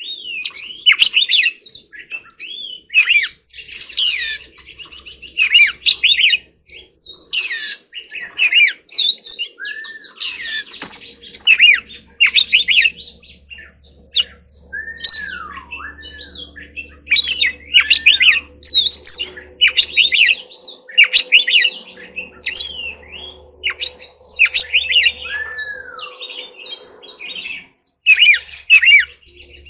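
Oriental magpie-robin singing a continuous run of varied whistled and chattering phrases, some whistles sliding down in pitch.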